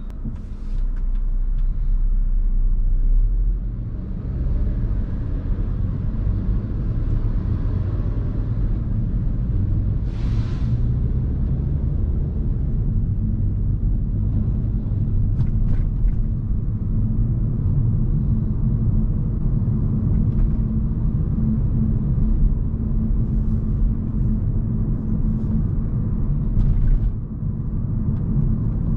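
Steady low road and tyre rumble of a Hyundai Kona Hybrid driving, heard from inside the car; it grows louder about a second in. A few short ticks and a brief rush of noise about ten seconds in sit over it.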